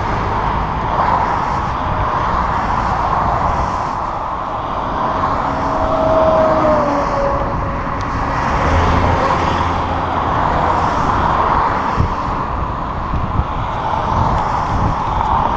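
Steady rushing noise of wind on the microphone while riding a bicycle beside road traffic, swelling and easing every couple of seconds, with passing cars. A short, slightly falling tone sounds about six seconds in.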